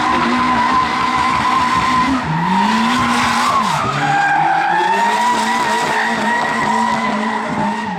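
Volvo 740-series drift car's turbocharged B230 four-cylinder held at high revs while the tyres squeal in a sustained drift. The revs dip and climb again about two seconds in and once more around four seconds.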